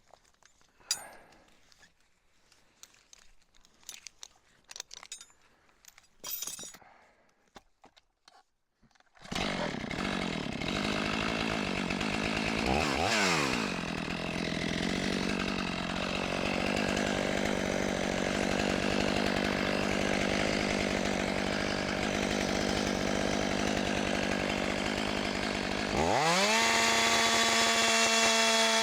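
Faint clinks and knocks, then a chainsaw starts cutting into a fir log about nine seconds in, running steadily under load. Near the end it rises sharply to a higher, steady pitch as the saw revs at full throttle.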